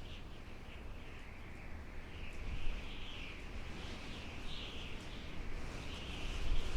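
Outdoor ambience: a continuous, wavering high-pitched chirping chorus over a low rumble like wind.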